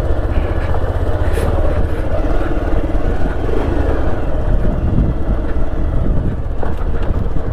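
Motorcycle running steadily while being ridden, a continuous low engine rumble.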